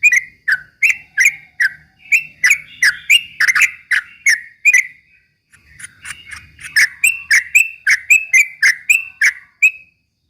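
Yellow-vented bulbul (trucuk) singing its rapid 'ropel' song: a fast string of short whistled chirps, about three a second, pausing for about a second around the middle before resuming, and stopping shortly before the end.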